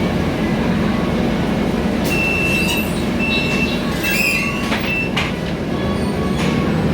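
Cabin ride noise of a Scania K320iA CNG bus under way: a steady engine and road rumble with rattles, and a high squeal that sounds several times in the middle.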